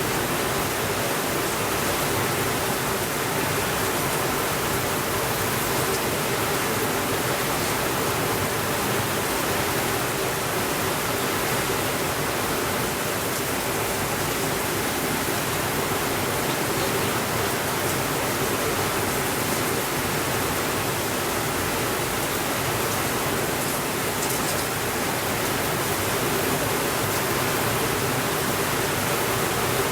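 Steady rainfall, an even hiss without breaks or thunder.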